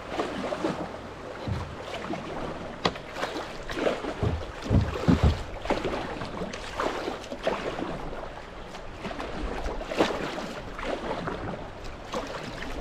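Kayak paddling on a creek: irregular paddle splashes over running water, with a few low thumps, the loudest around four to five seconds in.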